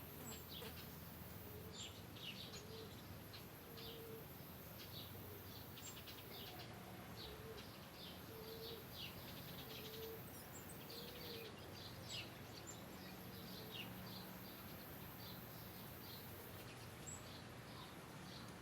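Faint outdoor ambience of small birds chirping, many short high calls scattered throughout. A lower, softer note repeats about once a second through the first two-thirds, over a steady low background rumble.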